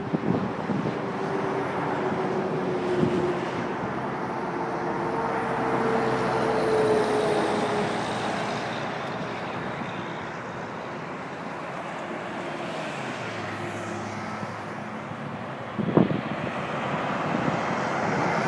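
Highway traffic: cars and trucks going by, a steady rush of tyre and engine noise that swells and fades as vehicles pass. There is one sharp click about 16 seconds in.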